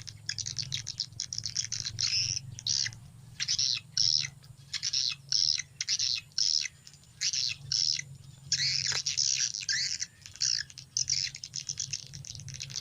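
Edible-nest swiftlet calls played back as a swiftlet-house lure sound through a phone and speaker: rapid high twittering chirps in irregular bursts, over a steady low hum.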